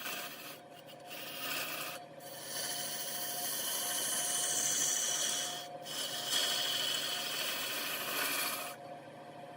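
Turning tool scraping into wood spinning on a large wood lathe, a rasping cutting noise that breaks off briefly several times over a steady hum.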